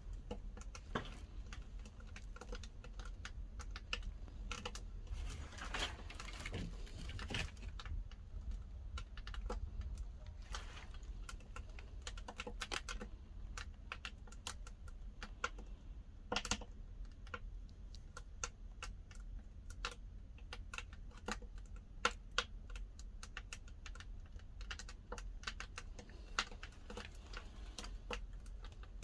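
Pine firewood burning in a wood-fired kiln, crackling and popping in irregular sharp clicks over a low steady rumble.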